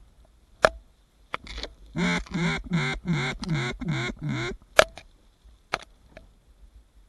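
A quick run of about eight loud duck quacks, each a short pitched call, stepping slightly lower in pitch through the series, in the pattern of a hen mallard's descending call. A few sharp clicks come before and after.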